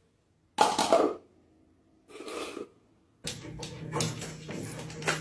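A hungry house cat meowing loudly twice, each call about half a second long. From about three seconds in, a steady low hum with scattered clicks and knocks follows.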